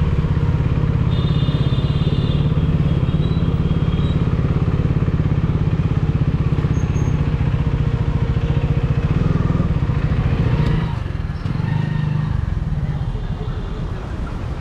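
KTM Duke 390's single-cylinder engine running through an aftermarket dual exhaust while riding under steady throttle. About 11 seconds in the throttle closes and the exhaust note drops off.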